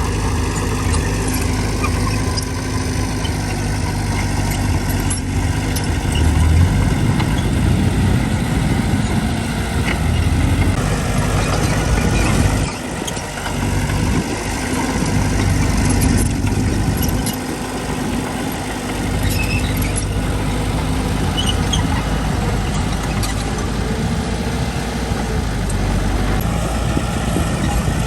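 Diesel engines of a small bulldozer and a dump truck running, the engine note rising and falling with load, with scattered light metallic squeaks and clinks.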